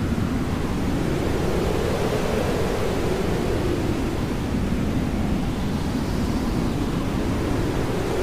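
Hair dryer running steadily: an even rushing noise whose lower tone wavers slowly up and down.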